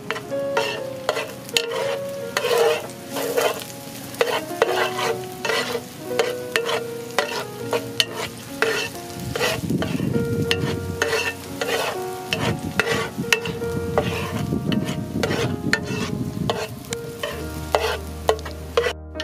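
Chopped chilies and garlic frying in oil in a black pan, sizzling, while a metal spoon stirs them with frequent scrapes and clicks against the pan.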